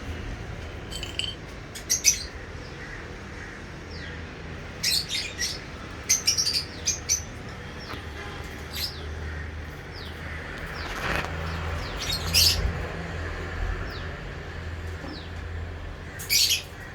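Lovebirds chirping in clusters of short, shrill calls, with fainter falling chirps between them, over a low steady hum.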